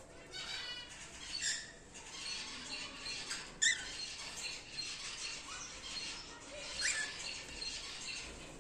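Cockatiels chirping and chattering, with short rising calls about three and a half and seven seconds in.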